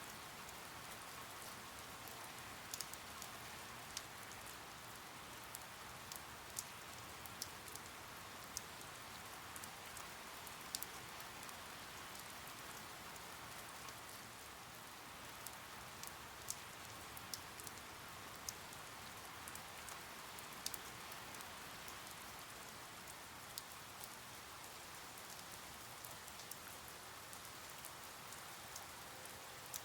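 Steady rain, a soft even hiss with scattered sharper drips landing on a surface.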